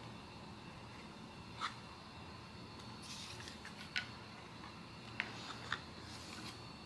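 Blind-box cards and packaging being handled: a few light taps and clicks and two brief rustles, over a faint steady hum.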